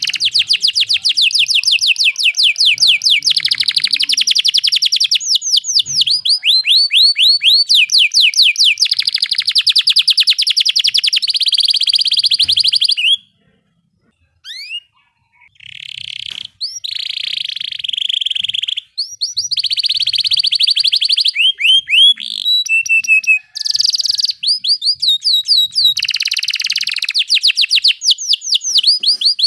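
Domestic canary singing its rolling song: long, fast trills of rapidly repeated sweeping notes, switching from one trill to the next every second or two, with a short pause about 13 seconds in.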